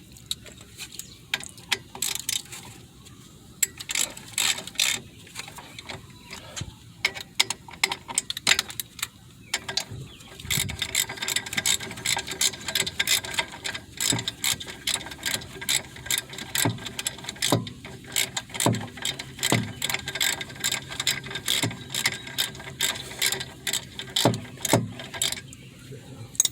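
Hand ratchet wrench clicking as the brake caliper bolts are tightened, in scattered strokes at first and then in fast, steady clicking from about ten seconds in.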